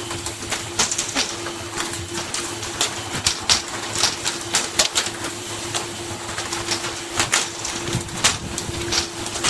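A fishing boat's machinery running with a steady hum, under many irregular sharp clicks and clattering knocks.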